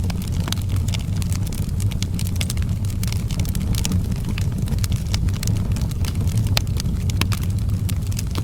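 Wood fire burning in an outdoor fireplace: a steady low rumble with many irregular sharp crackles and pops.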